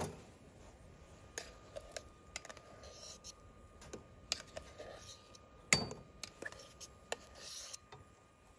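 Scattered light clinks and taps of a metal fork against camp cookware while food is served, with one sharper clink about six seconds in.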